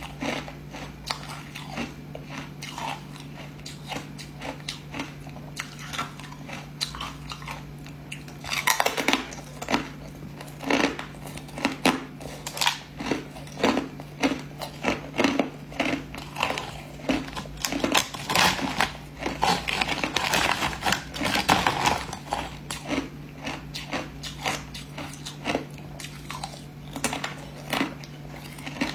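Hard ice being bitten and chewed: irregular sharp crunches, sparse at first, then a dense run of crunching through the middle, easing off again near the end. A steady low hum runs underneath.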